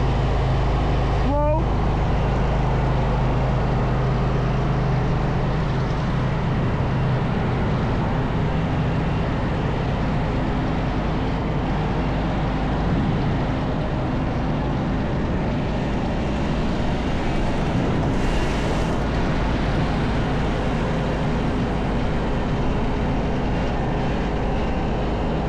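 An engine running steadily. Its low hum holds a steady pitch for about the first seven seconds, then becomes a rougher, even rushing noise.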